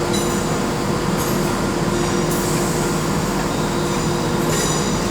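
Trains in a large station: a steady mechanical hum from trains standing at the platforms, with a few brief high-pitched whines coming and going.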